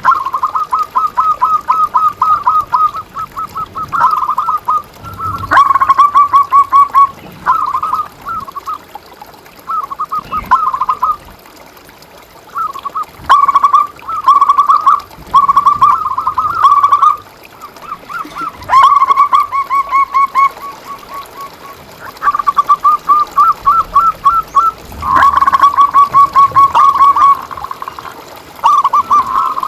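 Zebra doves (perkutut) cooing: repeated bouts of quick, short notes, several a second, broken by brief pauses.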